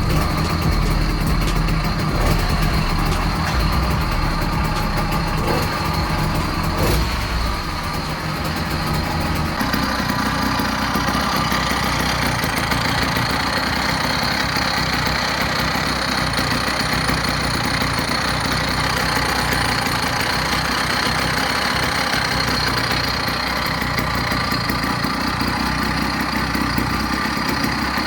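Small 50 cc two-stroke engine running steadily at idle. Its note shifts slightly about ten seconds in.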